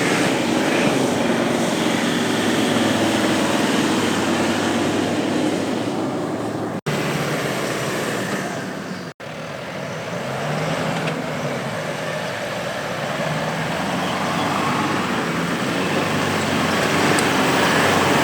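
Diesel SUV engine working hard under load as the vehicle pushes through soft trail, with broad rushing noise over it. The sound drops out abruptly twice, briefly, about 7 and 9 seconds in.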